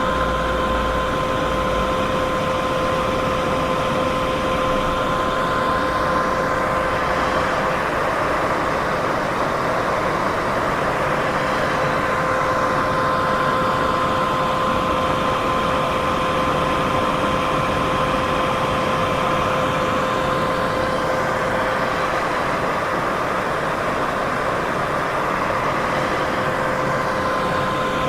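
Continuous white-noise sleep sound: a steady, even hiss with two faint steady tones beneath it and a slow sweep through the upper hiss every six or seven seconds.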